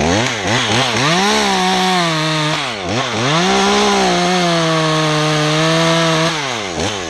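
Two-stroke chainsaw blipped several times in quick succession, then held at high revs for two long stretches with a short drop back toward idle between them, as it cuts into the pine.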